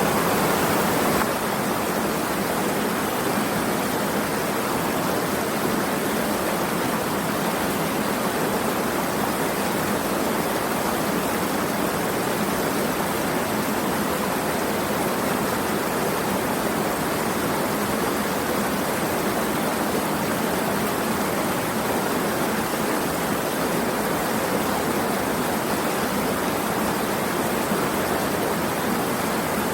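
Steady, continuous rush of flowing water, like a stream or small waterfall, a little louder for the first second.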